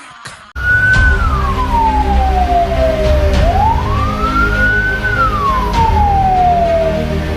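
Fire truck siren in wail mode, slowly falling and rising in pitch about every four seconds, over heavy low engine and road rumble of the moving truck. It cuts in abruptly about half a second in.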